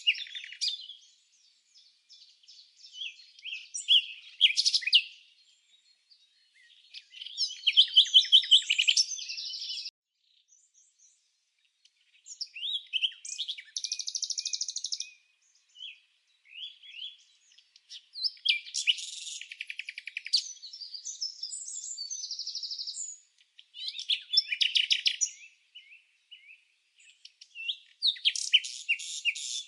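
Songbird singing: high chirps and fast trills in phrases of one to three seconds, with short silent gaps between them.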